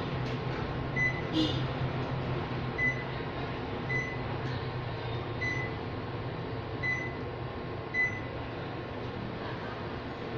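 Panasonic split air conditioner running with a steady hum. Short faint high chirps come about every second and a half, and there is one click about a second and a half in.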